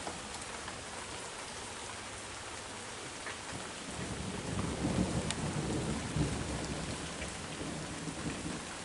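Steady heavy rain, with a low roll of thunder that builds about a third of the way in, is loudest in the middle and fades away near the end.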